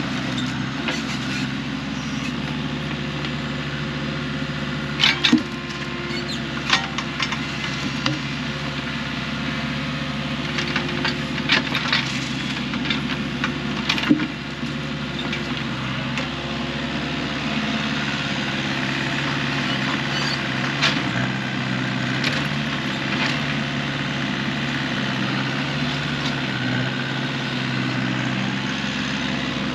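An engine running steadily, with a scattering of sharp knocks and clacks of wood in the first half.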